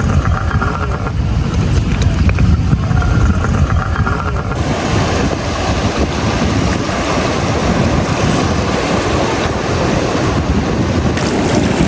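Wind buffeting the microphone over surf at a beach. About four and a half seconds in, the sound changes suddenly from a low rumble into a fuller, hissing wash of wind and waves.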